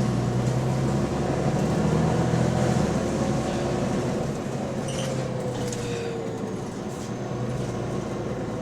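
Bus engine running with an exhaust leak, a steady low hum that eases off a little after about four seconds.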